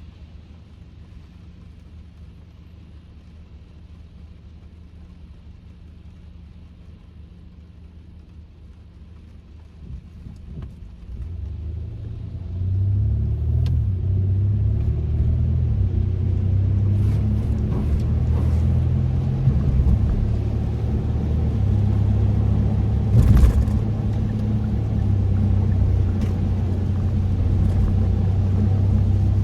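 Inside the cabin of a Kia K5 (DL3): a quiet low hum for about the first ten seconds, then a steep rise into a steady low rumble of engine and road noise as the car gets moving. A few faint clicks are scattered through it, one sharper about two-thirds of the way through.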